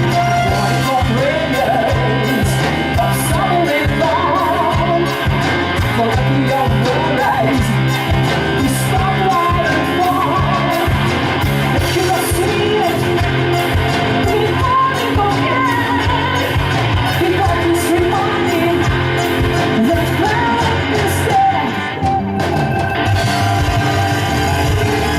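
Live rock band playing, with loud distorted guitars and drums and a shouted lead vocal.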